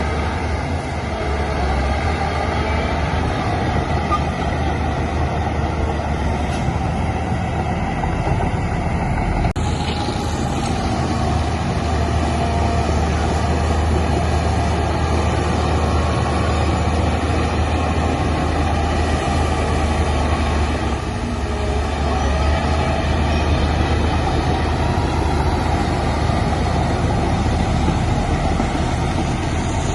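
Heavy diesel earthmoving machinery running steadily under load, with a sharp knock about nine and a half seconds in.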